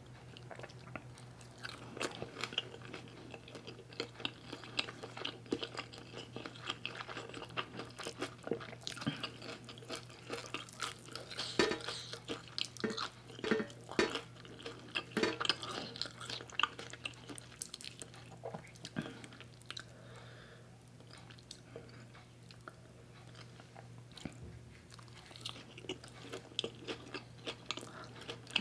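Close-miked chewing of a mouthful of steamed cod roe and sticky rice, with many small wet clicks and smacks. A steady low hum sits underneath.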